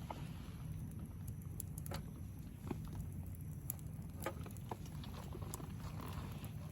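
Wood campfire crackling, with sharp irregular pops and snaps a few times a second over a low steady rumble.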